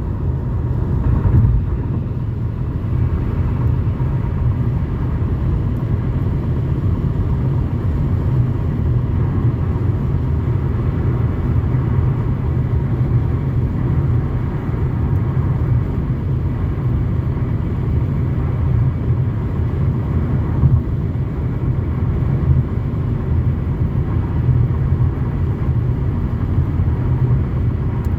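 Steady road and drivetrain rumble heard inside the cabin of a moving Toyota Camry.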